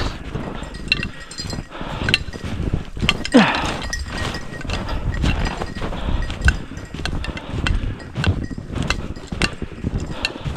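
Footsteps crunching through snow and brush in an irregular run of crunches and clinks, with a short falling squeal about three and a half seconds in.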